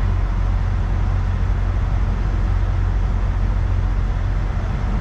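Steady low rumble of an idling vehicle engine, with no distinct knocks or bursts.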